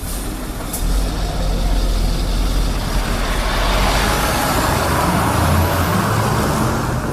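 Scania bus running loudly with a heavy low rumble, a faint high whine rising in pitch through the middle.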